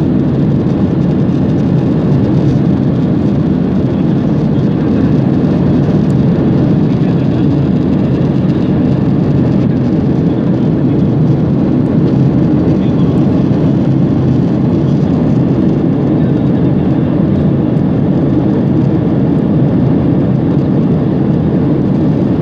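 Airplane cabin noise in flight: the steady, low-pitched sound of the engines and rushing air, unchanging throughout.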